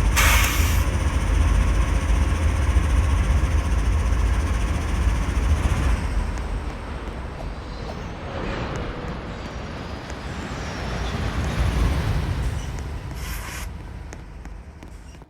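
Freight train rumbling by: a heavy, noisy rumble that drops off after about six seconds, swells briefly again, then fades before cutting off.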